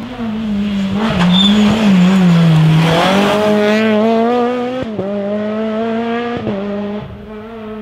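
Rally car engine at high revs: the revs drop away as it slows, then climb again through two quick upshifts, and the sound fades near the end as the car moves off.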